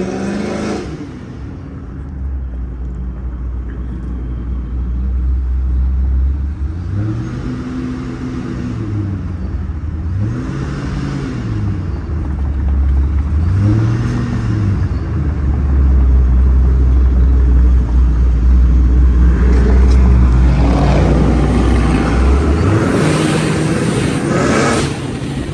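Loud V8 car exhaust idling low, blipped three times with the pitch rising and falling each time, then revved harder and longer near the end.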